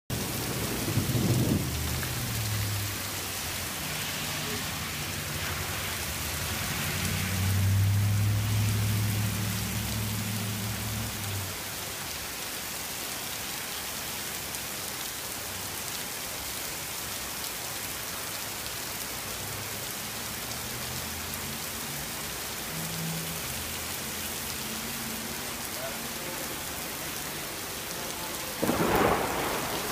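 Steady rain with thunder rumbling low, loudest about eight seconds in and fainter again later, then a sudden louder burst near the end.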